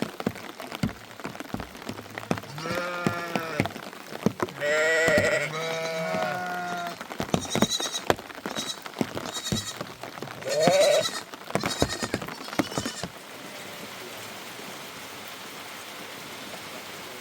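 Sheep bleating, several long wavering calls in the first part, over rain pattering with scattered sharp ticks. The calls stop about two-thirds of the way through, leaving a steady hiss of rain.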